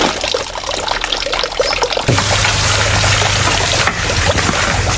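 Water trickling and pouring, with a steady low hum coming in suddenly about two seconds in.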